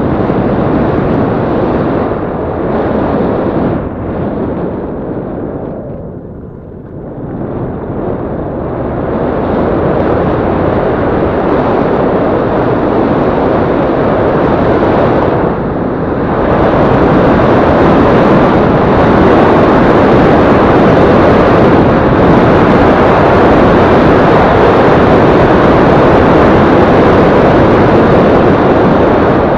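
Yamaha Crypton-X motorcycle being ridden, its engine under a loud rush of wind on the microphone. The sound dips briefly about six seconds in and grows louder from about sixteen seconds.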